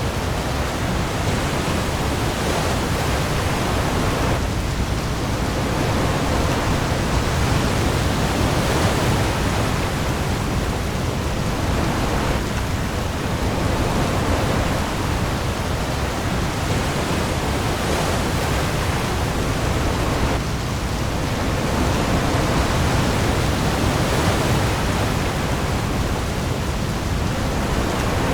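Heavy rain pouring onto the sea with waves, a steady dense hiss that swells and eases every few seconds over a deep low rumble.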